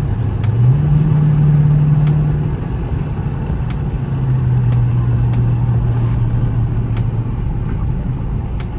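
Dodge Charger R/T's 5.7-litre Hemi V8, with its mid-muffler and resonator deleted, heard from the cabin with the windows down while driving. Under a light pull about a second in, the exhaust note rises and stays loud for a couple of seconds. It then eases back to a steady, lower drone.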